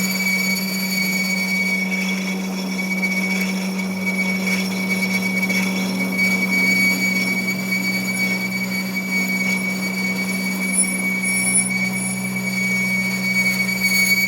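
A machine running steadily with a low hum and a constant high-pitched squeal.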